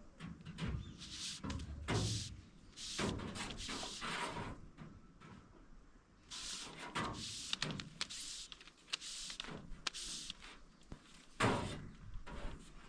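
Irregular scraping rubs and knocks of cable being handled and pulled straight, with a sharp knock about two seconds in and a louder one near the end.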